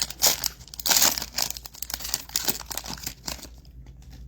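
Foil trading-card pack wrapper being torn open and crinkled: two loud tearing rips near the start and about a second in, then lighter crinkling.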